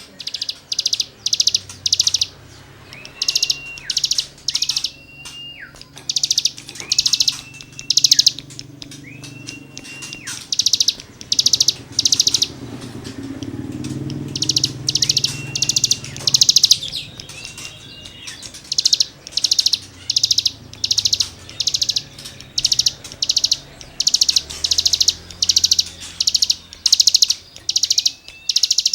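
A songbird known in Indonesia as the cigung singing in a loud, fast series: short rasping buzzy bursts in quick groups of two to four, the 'gesekan' (scraping) notes, mixed with a few clear whistles that rise and hold before dropping.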